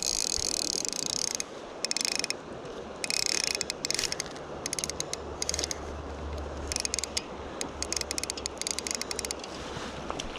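Fly reel's click-and-pawl drag ratcheting while a hooked brown trout is played, a steady buzz for about the first second and a half, then breaking into short spurts of clicking. Running river water hisses underneath.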